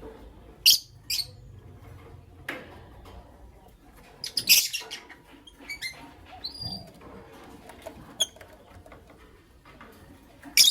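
Lovebirds giving short, sharp, high-pitched chirps: two about a second in, a louder cluster of calls around the middle, then scattered softer chirps and one more sharp call at the end.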